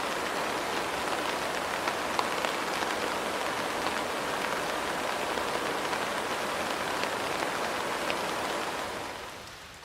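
Steady rainfall, a dense even hiss with scattered individual drops ticking, fading out in the last second or so.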